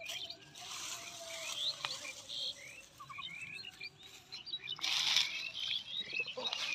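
Small birds chirping, many short rising notes. Two bursts of rustling break in, early and about five seconds in.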